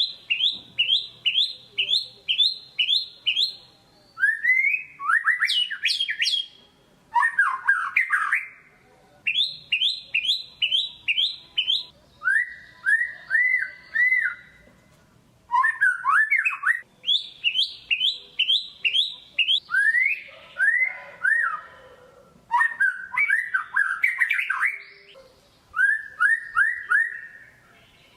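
White-rumped shama (murai batu) singing vigorously, a rapid-fire lure song: phrase after phrase of quick, sharp repeated notes, about four or five a second, each phrase a different pattern with brief pauses between.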